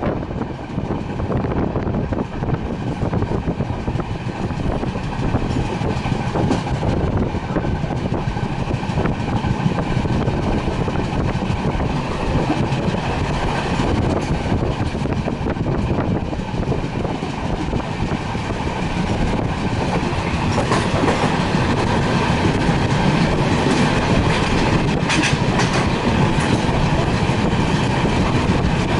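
Passenger train running along the track: a steady rumble and rattle of coach wheels on the rails with some clickety-clack, a little louder in the last third.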